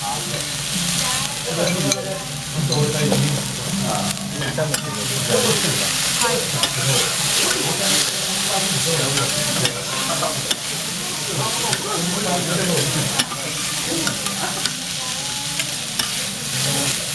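Chopped cabbage and other monjayaki ingredients sizzling on a hot, oiled iron griddle while being stir-fried and chopped with metal spatulas, with frequent sharp clicks of the spatulas on the griddle.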